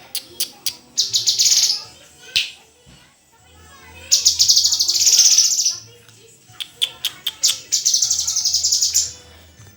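A murai songbird singing loud, rapid chattering phrases of fast-repeated high notes. The longest phrases come about four and seven seconds in, with short pauses between them.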